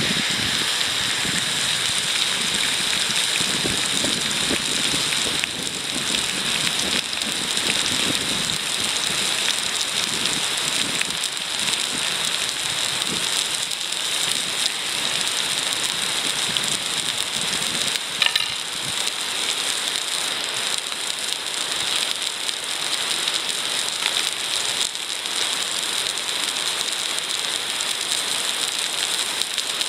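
Food sizzling steadily in a Petromax wrought-iron frying pan over a wood fire, with scattered crackles and one sharper tick about 18 seconds in.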